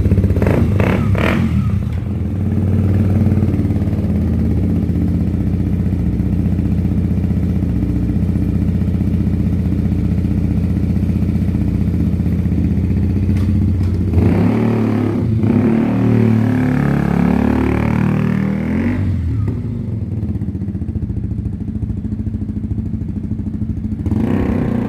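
KTM Duke 125's single-cylinder four-stroke engine idling through an aftermarket Black Widow exhaust. About two-thirds of the way through, the throttle is blipped several times, the pitch rising and falling, before the engine settles back to a slightly quieter idle.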